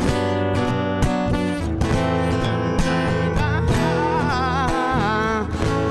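Instrumental passage of a slow ballad: acoustic guitar strummed in an even rhythm under sustained chords, with a wavering melody line coming in about three and a half seconds in.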